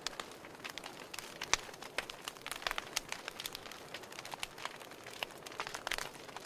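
Wood fire crackling: irregular sharp snaps and pops, several a second, over a soft hiss of burning, with a few louder pops.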